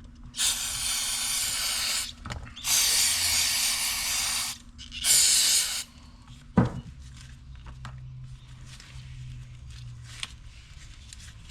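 Aerosol can of throttle body cleaner spraying in three bursts, the last one short, followed by a single sharp knock.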